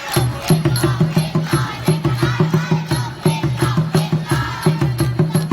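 A fast, steady drum beat with sharp percussion clicks, and a group of children chanting along over it, typical of a school sports-day cheering section.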